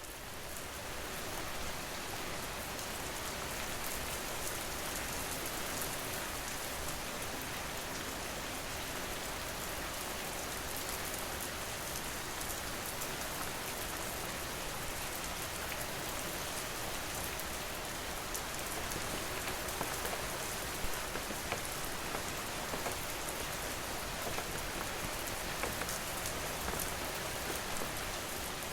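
Steady rain falling, a dense even hiss with many fine drops pattering on a surface. It fades in over the first second or two.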